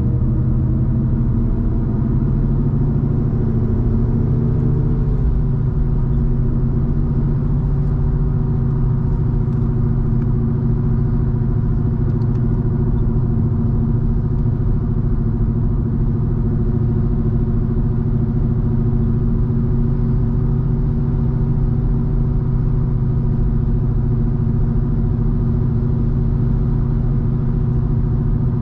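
BMW 316i E46's four-cylinder engine heard from inside the cabin, pulling at highway speed. Its drone rises a little in pitch over the first few seconds, then holds steady over low road rumble.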